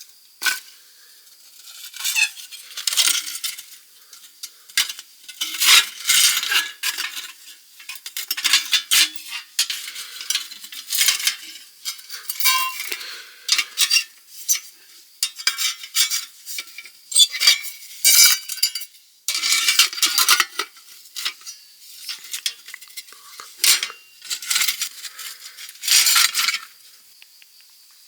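Metal utensils clinking and scraping against camp cookware in irregular bursts, like stirring or handling food in a pot or pan. The clatter stops near the end.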